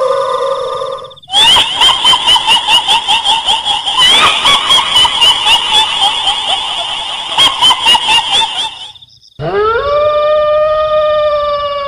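Horror sound-effect mix of howling and shrill cries. It opens on a held howl, then runs for several seconds of rapid shrill yelping or cackling pulses at about four a second. After a short gap comes a long howl that rises, then holds, over a faint steady high whine.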